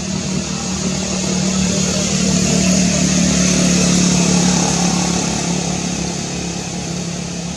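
Steady engine hum with one constant low tone, growing louder toward the middle and easing off again.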